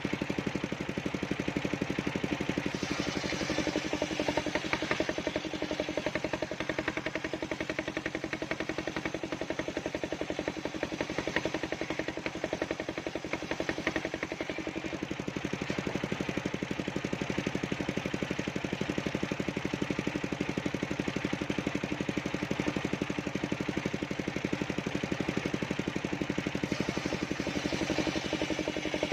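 Engine of a portable circular-saw rig running steadily at an even speed while sengon timber is ripped, with a rapid, even firing beat.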